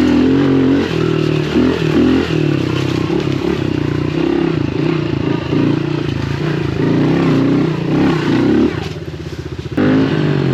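110cc pit bike engine running under changing throttle, its pitch rising and falling, then dropping off for about a second near the end before picking back up.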